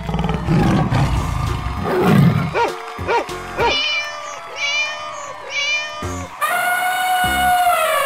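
Cartoon animal sound effects over children's music: a big cat's roar first, then a few short calls and a run of cat meows, then one long held animal call near the end.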